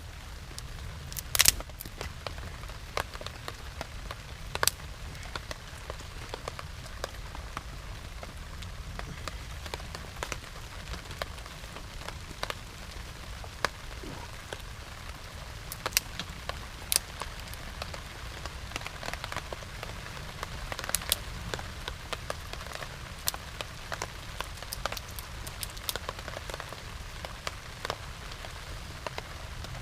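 Steady rain falling, with scattered sharp taps of drops striking close by; a few of the taps are much louder than the rest.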